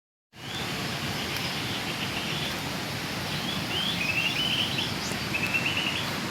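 Birds chirping in short phrases of quick repeated notes, with a brief rising whistle, over a steady background hiss.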